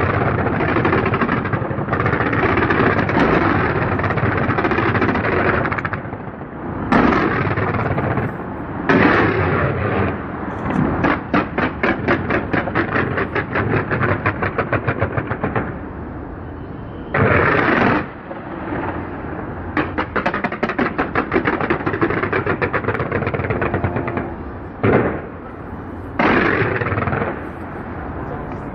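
Fireworks shot off a skyscraper facade: a dense, continuous crackle of bangs, with stretches of rapid volleys several a second that rattle like machine-gun fire and sudden louder surges.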